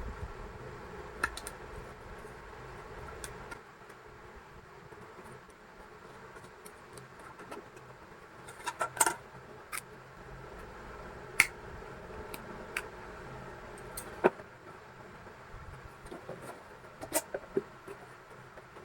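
Scattered sharp clicks and taps of small objects being handled during crafting work, louder in a short cluster about halfway through, over a faint steady hum.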